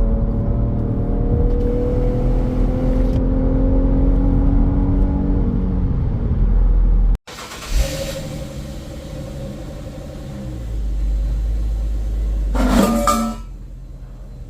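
Exhaust note of an Infiniti Q50's 3.7-litre VQ V6 through a Remark axleback on the move, its pitch drifting slowly up and back down. About seven seconds in it cuts off suddenly and is followed by a quieter, steadier engine sound, with a short louder sound near the end.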